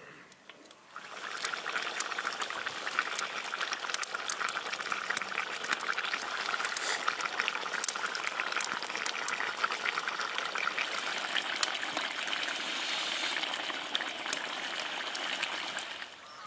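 Sausage frying in hot oil in an iron wok, a steady sizzle full of small crackles that starts about a second in.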